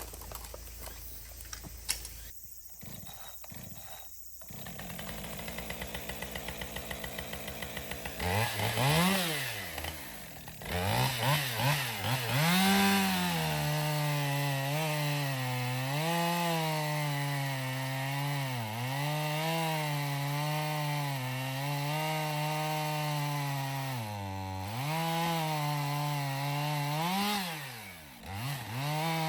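Two-stroke chainsaw that runs at low speed, revs up about eight seconds in, then holds at high revs. Its pitch sags and recovers as it cuts into wood.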